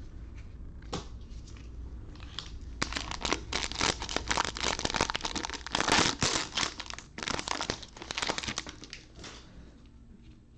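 A football trading-card pack wrapper crinkling and being torn open by hand, a dense run of crackles for several seconds, loudest near the middle.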